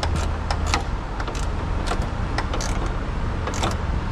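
Hand ratchet clicking in short, uneven runs as a bolt is tightened, over a steady low hum.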